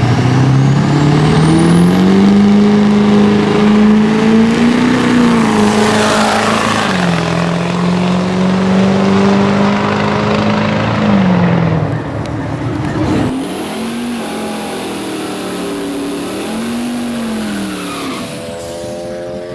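Drag-race vehicle's engine at full throttle on a pass. Its pitch climbs over the first two seconds and holds high, drops about seven seconds in and falls again near twelve seconds. About thirteen seconds in the sound cuts to a quieter engine whose pitch rises and falls twice, then sweeps down near the end as the car goes by.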